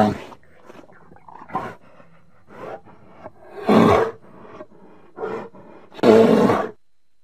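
Bear roaring: loud, rough roars at the start, about four seconds in and near the end, with shorter, quieter growls and grunts between them.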